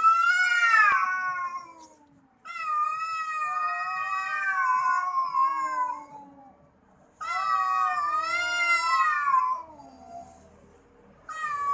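Domestic cats yowling at each other in a standoff before a fight: three long, wavering yowls, the second the longest, and a fourth starting near the end.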